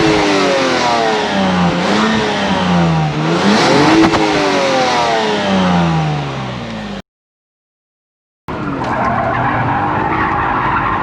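Lexus IS200's straight-six engine revved through its stock exhaust: three blips, the pitch rising and falling about every two seconds. The sound then cuts out completely for about a second and a half and comes back as a steadier engine note. With the original muffler on it is very quiet from the tail: mostly the engine from the front, which the owners find far too quiet.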